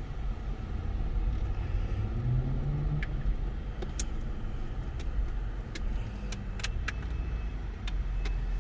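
Car driving, a steady low rumble of engine and road noise heard from inside the cabin, with a few faint clicks.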